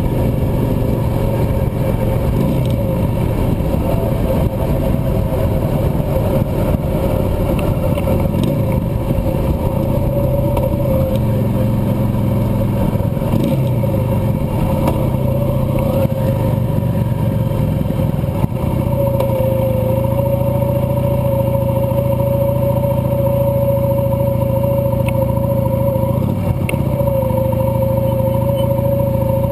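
Cruiser motorcycle engine running under way, its pitch shifting a little in the first half and then holding steady.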